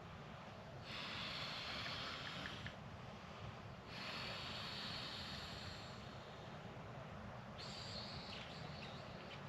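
A person breathing heavily close to the microphone: three long, hissing breaths a few seconds apart over a low, steady rumble.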